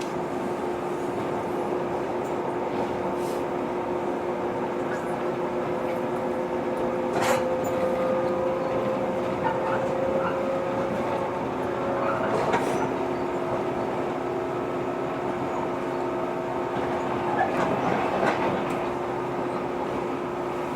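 JR 115-series electric train running, heard inside the carriage: a steady hum and rumble, with a tone that rises slowly midway. A few sharp clicks come through now and then.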